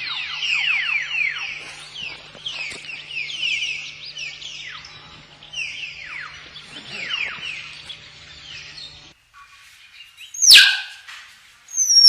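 Common hill myna calling: a fast run of short downward-sweeping whistles and chirps, then two loud, piercing shrieks that glide steeply down in pitch near the end.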